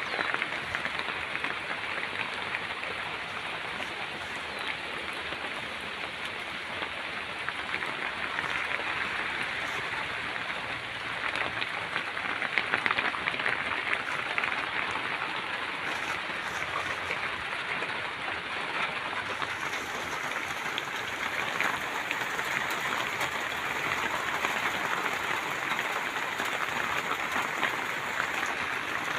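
Steady rain falling, a dense even patter of many drops that swells slightly in loudness about twelve seconds in.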